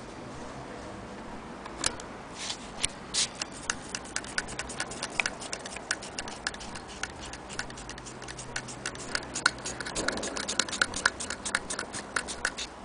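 Antique Willcox & Gibbs sewing machine being turned over, its mechanism clicking, hesitantly at first and then in a fairly even run of about four to five clicks a second.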